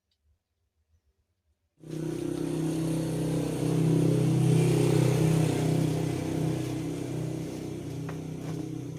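A motor running with a steady low hum and hiss that starts abruptly about two seconds in, swells, then slowly fades.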